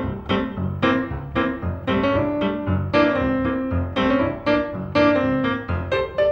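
Piano music accompaniment with a steady, bouncy rhythm: a bass note and chords struck about twice a second.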